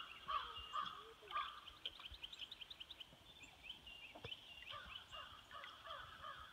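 Birds calling in trees along a wooded riverbank: a rapid, overlapping series of short chirps and calls, faint.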